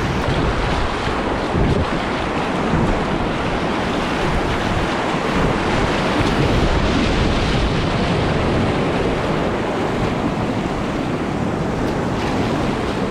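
Steady rushing of whitewater through a river rapid.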